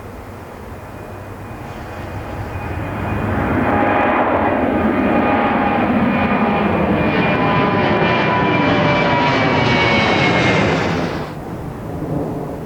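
Jet airliner passing low overhead near the runway end: the engine noise builds over a few seconds to a loud roar with whining tones that slide slightly lower in pitch, then cuts off suddenly about eleven seconds in.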